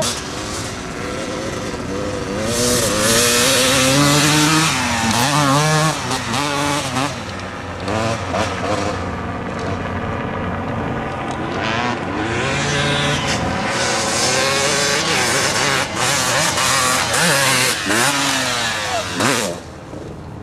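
Dirt bike engine revving hard, its pitch climbing and falling again and again, with two loud stretches of hard riding and a sudden drop in sound near the end.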